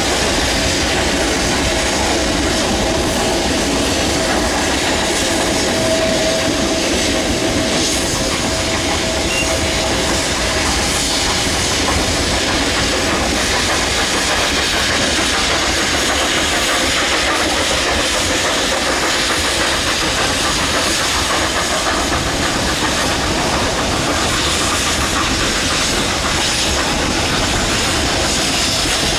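Narrow-gauge Durango & Silverton freight train heard from a gondola car as it runs: a steady rolling rumble and clatter of steel wheels on the rails, mixed with steam hiss from the working 2-8-2 locomotive ahead. A faint thin squeal runs through the first ten seconds or so.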